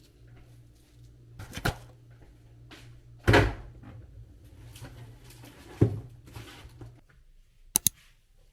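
Three knocks or thumps a couple of seconds apart over a low steady hum. The middle one is the loudest and rings on briefly, and near the end comes a sharp double click after the hum has stopped.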